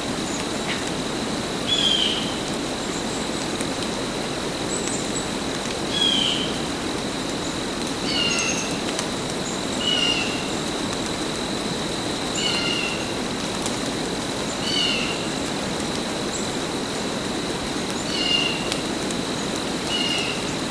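Steady rain falling, with a bird repeating a short falling call about every two seconds and a thin steady high-pitched tone underneath.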